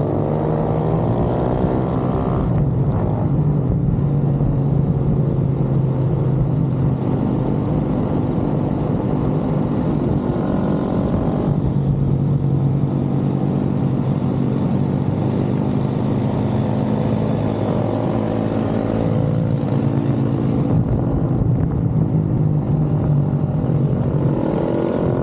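Pit bike engine running hard, its pitch sliding up and down as the revs rise and fall.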